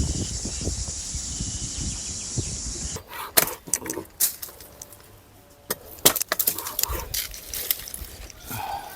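Insects droning steadily and high-pitched for about three seconds, stopping abruptly. Scattered sharp knocks and clicks follow.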